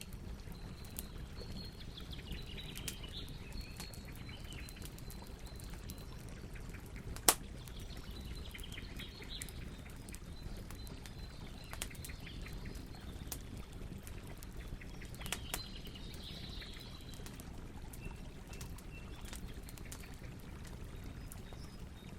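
Campfire burning: a steady low rumble of flames with scattered crackles and pops from the burning wood, one sharp, much louder pop about seven seconds in. Birds chirp faintly in the background now and then.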